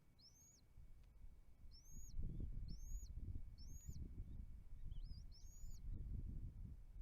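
A bird giving a series of high, thin calls, each rising then falling away, about one a second, over a low rumbling noise that grows louder about two seconds in.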